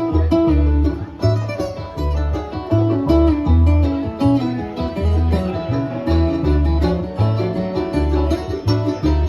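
Acoustic bluegrass string band playing an instrumental break, with plucked strings over low bass notes on a steady beat.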